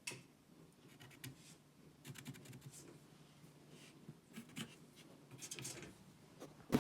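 Faint, scattered scratching and light clicks of small hand work on wood, with a quick run of clicks about two seconds in.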